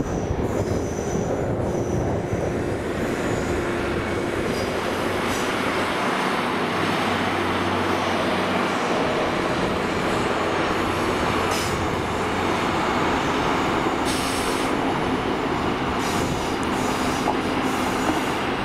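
A train running along the line: a steady, loud rumble of wheels on rail that holds level throughout.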